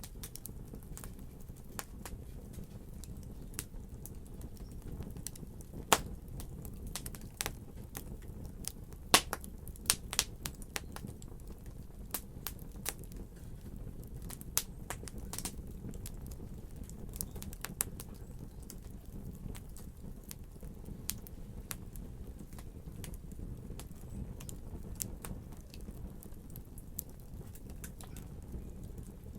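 Wood fire crackling: a steady low rumble of the flames with irregular sharp pops and snaps, a few louder pops about six and nine to ten seconds in.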